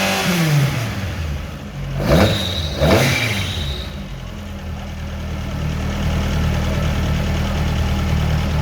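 Rally car engine with the revs falling away, two quick throttle blips about two and three seconds in, then settling to a steady low running note.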